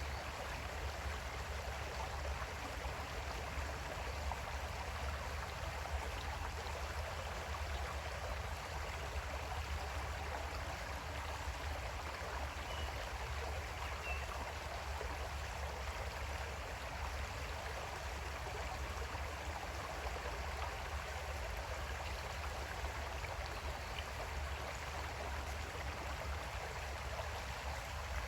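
Creek water flowing steadily over its bed, an even rushing with a strong low rumble underneath.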